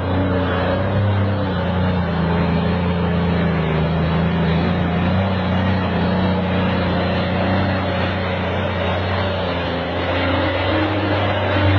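An engine running steadily with a low, even hum whose pitch wavers only slightly, with a noisy rumble around it.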